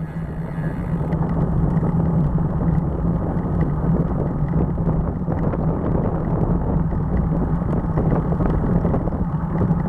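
Steady road and wind rumble of a moving ride, with a constant low drone underneath, swelling up over the first second and then holding even.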